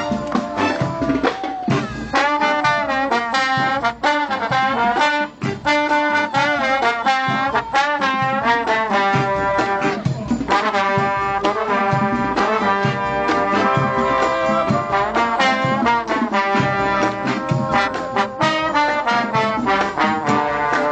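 A live college band's horn section playing an upbeat tune, brass to the fore, with notes that slide and bend between about two and five seconds in.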